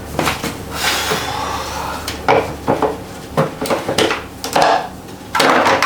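Dishes and cutlery clattering: a run of sharp clinks and knocks, with a short stretch of rubbing noise about a second in.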